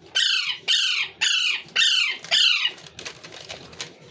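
Parrot calling five times in quick succession, each call falling in pitch, with faint clicks after the last one.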